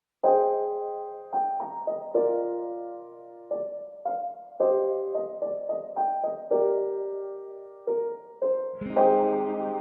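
Background music: piano notes and chords, each struck and then fading, in a slow, gentle melody. A fuller accompaniment with lower notes comes in near the end.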